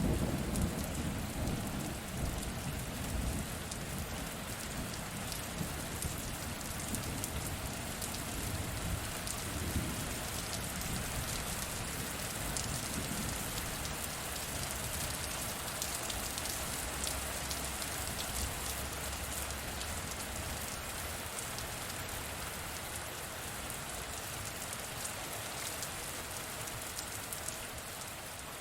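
Steady rain pouring down. The tail of a low thunder rumble dies away in the first couple of seconds.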